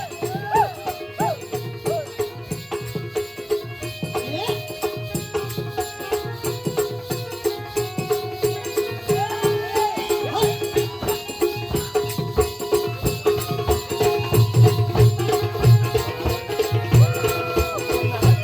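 Live Konkan folk music for a balya (jakhadi) dance: a quick, steady drum beat with jingling rattles over a held drone note, and a voice singing.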